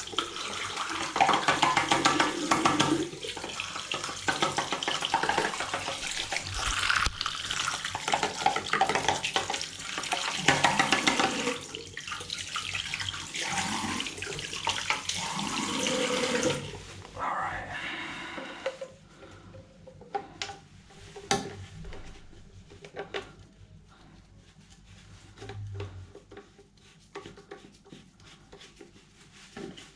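Tap water running into a sink and splashing for about seventeen seconds, then shutting off, followed by scattered small clicks and knocks of parts being handled.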